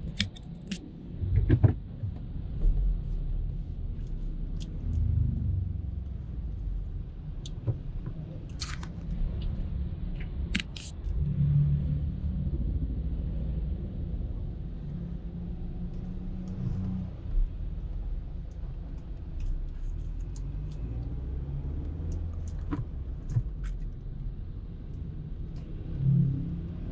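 Car driving, a steady low road and engine rumble that swells now and then, with a few scattered clicks and knocks.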